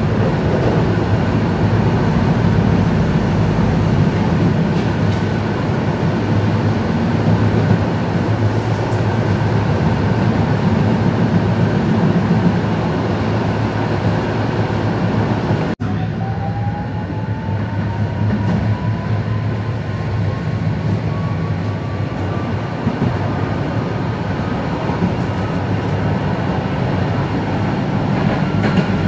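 Steady running rumble heard from inside a moving rail vehicle. After a short break about halfway through, a thin whine rises slowly and steadily in pitch.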